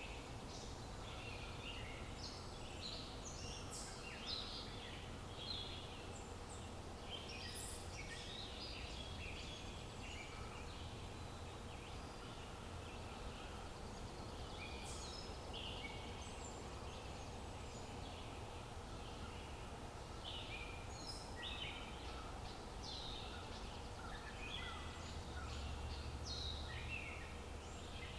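Several small birds chirping and singing in quick, overlapping calls, over a steady low outdoor background hiss.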